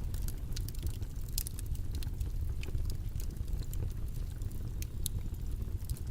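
Steady low rumble of background noise, with scattered faint crackling clicks at irregular moments.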